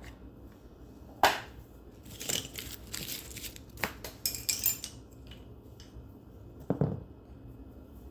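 Metal transaxle parts being handled during disassembly: a sharp metallic clack about a second in, a few seconds of rattling and scraping clinks, then a duller knock near the end.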